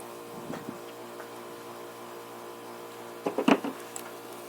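Handling knocks as the chainsaw's bar and chain are worked loose: a quick run of four or five sharp knocks a little past three seconds in, over a steady hum.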